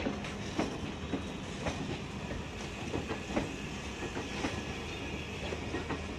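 Maharajas' Express LHB passenger coaches rolling past, with an irregular clickety-clack of the wheels over rail joints a few times a second above a steady rumble and a low hum.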